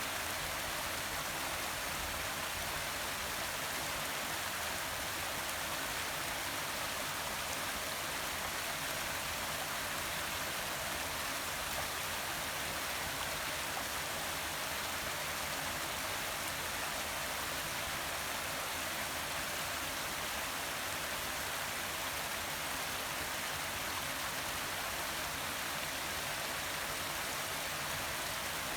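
Small forest waterfall splashing and running steadily, an even hiss of falling water.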